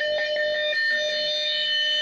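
Distorted noise from a chain of guitar effects pedals with fuzz: one steady, high held drone tone with a few faint clicks.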